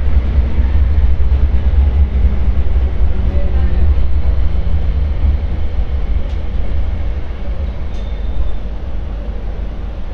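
MTR Light Rail Phase 4 light rail vehicle running along the track, a heavy, steady low rumble with rail noise over it, growing quieter in the last couple of seconds.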